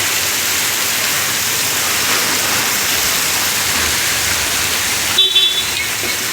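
Heavy monsoon rain pouring steadily. A brief high tone cuts in about five seconds in.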